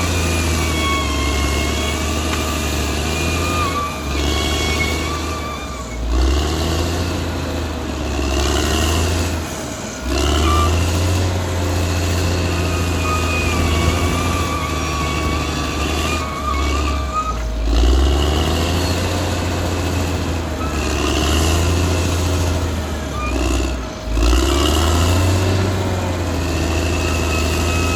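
Caterpillar D6R XL bulldozer's diesel engine running under load as it works, its note rising and falling several times, with wavering high squeals over the engine.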